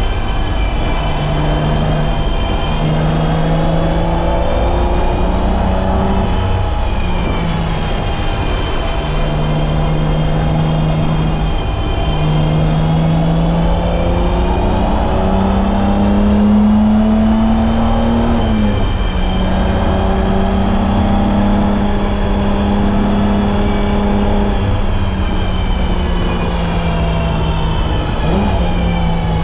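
BMW E30's M20B25 2.5-litre inline-six engine pulling hard on track. Its pitch climbs and drops back repeatedly as the car is shifted through the gears and lifted for corners.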